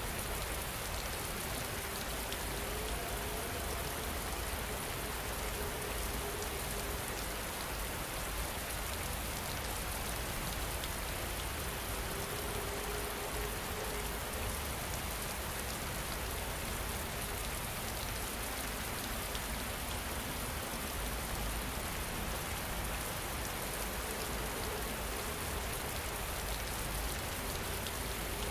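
Steady rainfall, a continuous even hiss of rain falling on surfaces, with faint soft tones drifting in and out beneath it.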